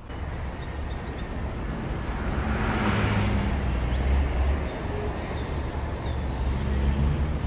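Road traffic noise, with a vehicle passing that swells and fades about three seconds in.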